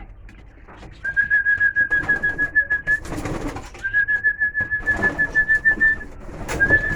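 A trilled whistle held at one steady pitch, blown three times: two runs of about two seconds each and a short one near the end, calling racing pigeons in to the loft to feed.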